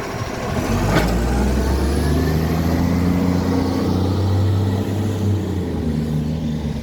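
Garbage truck's diesel engine pulling away under load, its note rising and then holding steady, with a sharp click about a second in and a faint rising whistle; the engine drops away near the end. The truck has a very bad exhaust leak.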